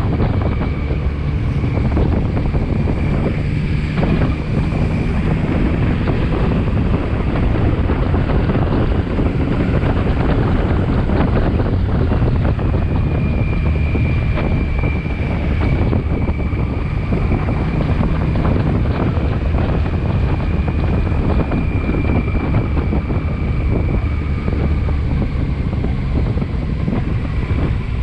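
A motorcycle underway, with heavy wind buffeting on the microphone over the engine's steady running, and a thin steady high whine above.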